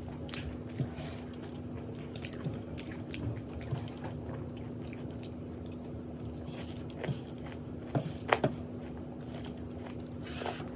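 Close-up chewing and biting of crunchy food, a stream of small crackling crunches with a few louder ones about eight seconds in, over a steady low hum.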